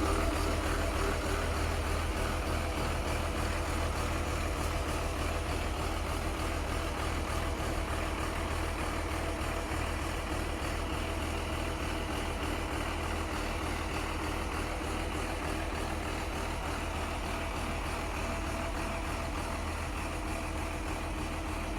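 Truck diesel engine idling steadily with a deep, even drone, on a Dongfeng crane truck fitted with a Cummins 190 hp engine.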